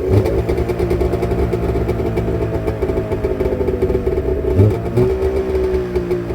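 1994 snowmobile's carbureted two-stroke engine running on full choke just after a cold start, a little cold-blooded. It runs steadily, with a brief dip in speed about four and a half seconds in.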